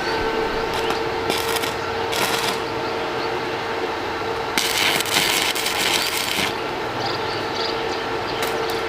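Electric arc welding on an iron frame: short bursts of crackling hiss, one lasting about two seconds, over a steady machine hum.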